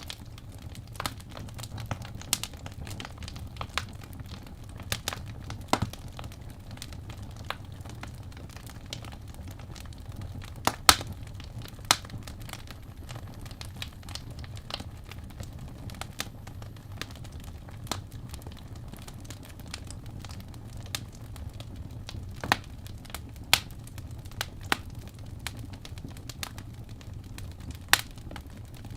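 Wood fire crackling: irregular sharp pops and snaps over a low steady rumble, with a few louder pops near the middle.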